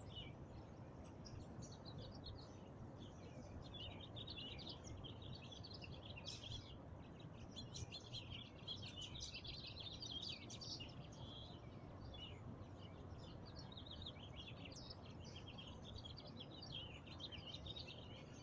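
Faint birdsong: many quick, high chirps and twitters overlapping almost without a break, over a steady low outdoor rumble.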